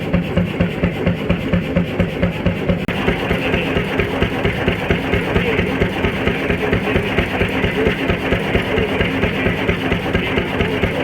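Old engines running at a slow, regular beat of about two pulses a second. About three seconds in the sound cuts to another engine with a busier, denser running note.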